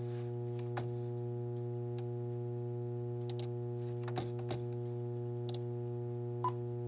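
Steady low electrical hum with a stack of overtones from VHS tape playback between programmes, with a few faint scattered clicks.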